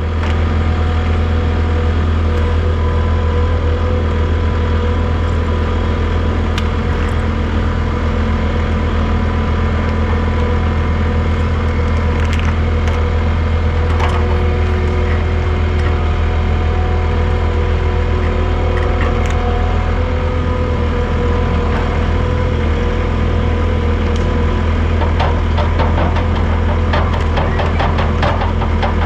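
Heavy diesel equipment running steadily under load as it pulls a waterline plow through the ground, with a run of cracking and clicking near the end.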